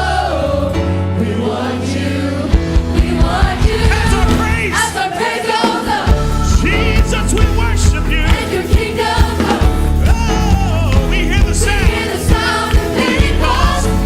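Gospel choir singing a song with band accompaniment and a deep bass line; a steady beat enters about two and a half seconds in.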